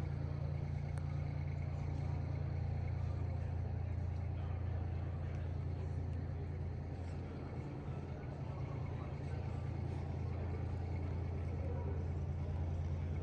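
Big diesel truck engine running steadily at an even, low rumble, with no revving.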